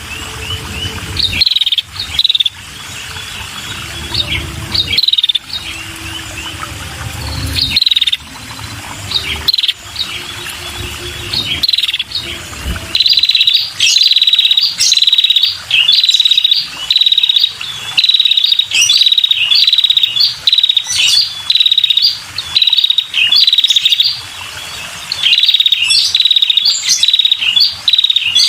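Female red-headed prenjak calling: short buzzy, chattering notes around 4 kHz, scattered at first, then from about halfway in a loud, steady run of about two to three calls a second. A low rumble lies under the first half.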